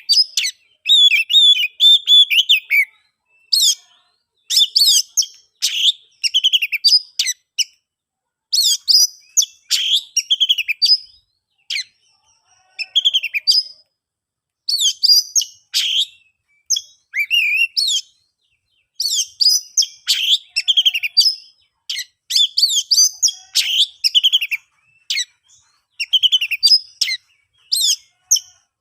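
Oriental magpie-robin (kacer) singing loudly: phrases of quick, varied high notes, each about one to two seconds long, following one another with short pauses between.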